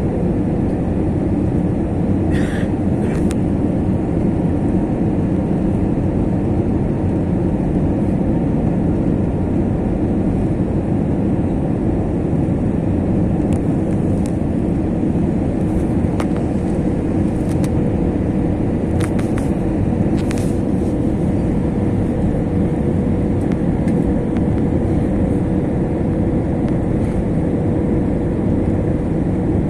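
Steady rumble of an Airbus A321 heard inside the cabin, with engine and airflow noise, a faint steady hum and a few light clicks.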